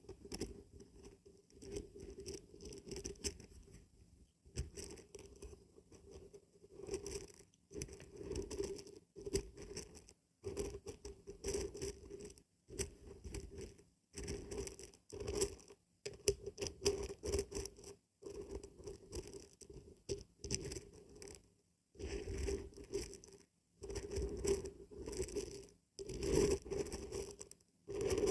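Dry beans and barberries being shaken, rattling in repeated bursts of a second or two with short pauses between them.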